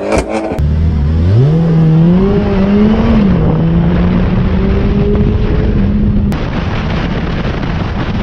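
A car engine revs up, eases back slightly and then holds a steady higher pitch. The engine tone fades out about six seconds in, leaving a steady noisy background.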